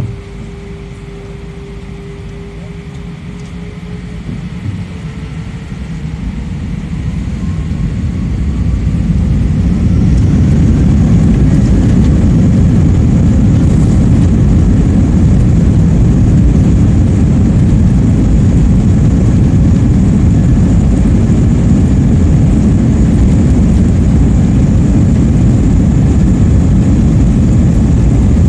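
Airbus A320 jet engines spooling up to takeoff thrust, heard from inside the passenger cabin. A whine rises over the first several seconds as the noise swells, and from about ten seconds in it holds as a loud, steady rumble of the takeoff roll and climb.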